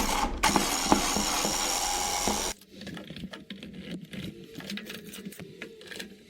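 A small electric motor whirs steadily for about two and a half seconds and stops abruptly, followed by light clicks and the handling of metal parts.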